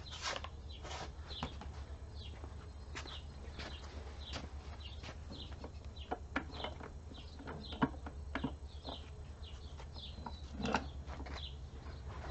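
Small birds chirping over and over in short notes, with a few light clicks and knocks, one a little louder near the end, over a steady low hum.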